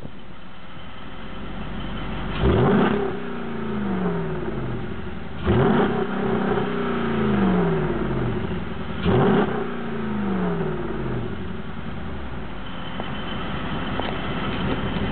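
2006 Jeep Grand Cherokee SRT8's 6.1-litre HEMI V8 idling through an aftermarket exhaust with cutouts and a Magnaflow muffler, blipped three times, each rev falling back to idle over a second or two.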